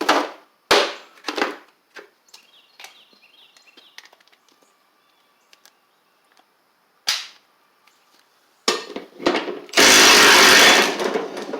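Metal hand tools clanking against a lawn tractor's mower deck spindle, with a few sharp knocks and light clicks. Near the end a power tool runs in one loud burst of about a second, loosening the spindle pulley nut.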